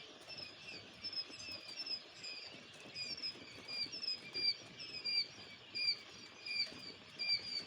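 Two-day-old quail chicks peeping: many short, high, slightly falling peeps, a few each second, with a soft pattering underneath.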